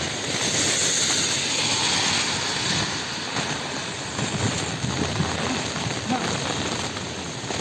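Heavy rain falling, a steady hiss of rain on surfaces that swells for the first few seconds.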